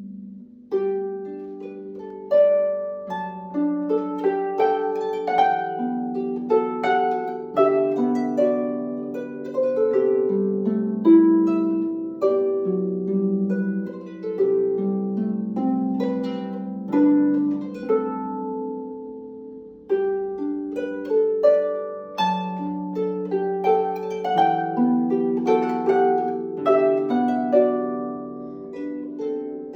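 Solo harp playing a gentle melody over plucked chords, each note ringing and fading. The playing thins to a few sustained notes about two-thirds of the way through, then picks up again.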